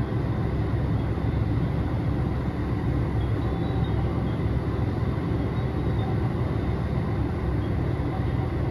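Steady running noise inside a Chizu Express HOT7000-series diesel railcar as the Super Hakuto limited express pulls out of a station.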